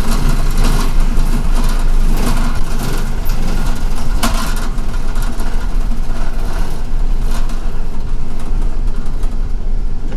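City bus in motion, heard from inside the passenger cabin: a steady engine hum and road noise, with occasional knocks and rattles.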